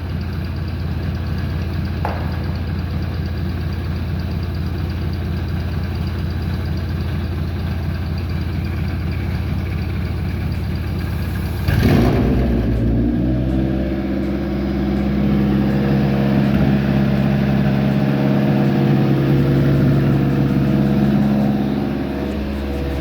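Toyota 2AZ four-cylinder engine on a test stand being cranked steadily by its starter for about twelve seconds, then catching and running. Its idle rises for several seconds and settles back down near the end.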